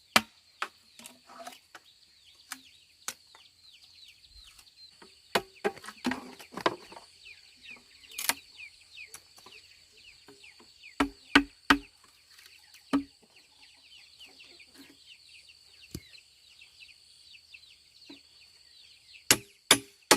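Chopping strikes, a blade cutting bamboo: irregular single blows, then a quick run of about three strikes a second near the end. Underneath runs a steady high insect drone with many short high chirping calls.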